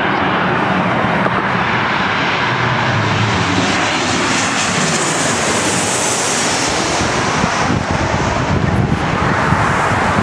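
Passenger aircraft passing close, its engines a loud, steady rush. A high whine swells about halfway through, and a lower tone falls in pitch as the plane goes by.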